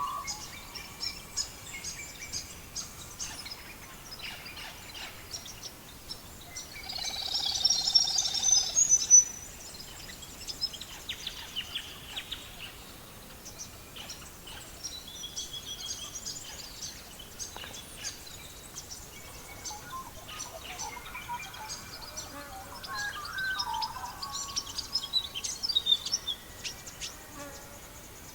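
Wood fire crackling with scattered sharp pops, and birds chirping and singing over it. A loud, dense burst of birdsong comes about seven seconds in and lasts about two seconds.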